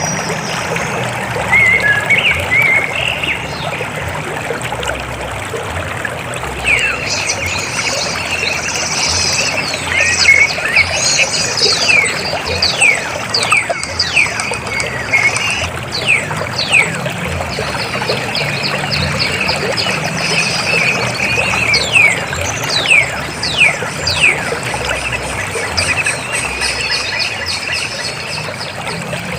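River water flowing and splashing in a steady rush. Over it, from a few seconds in until near the end, birds call in quick series of short, high, falling whistles.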